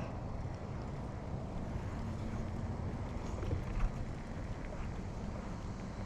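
Dirt bike engine running low and steady, with wind noise on the microphone.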